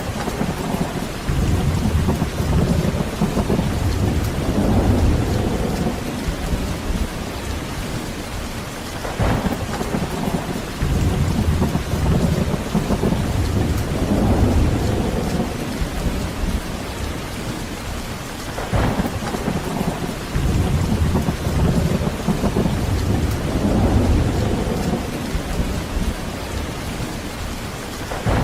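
Heavy rain falling steadily under a thunderstorm, with rolling thunder: three times, a sharp crack is followed by several seconds of deep rumbling, about every nine to ten seconds.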